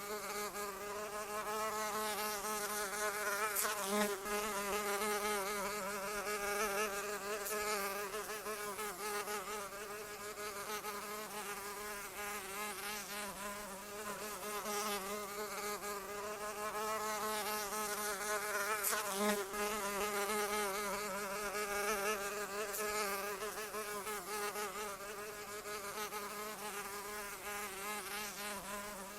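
Flying insect's wings buzzing continuously, the pitch wavering slightly and the loudness swelling and easing as if it circles near and away.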